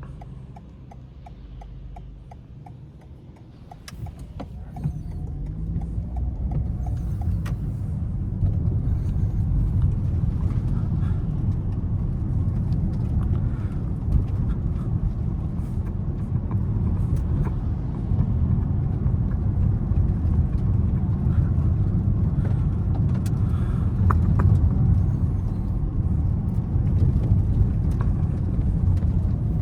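Car driving on city roads: a steady low rumble of engine and tyres. It starts quiet with a light regular ticking, then grows louder about four seconds in and again around eight seconds.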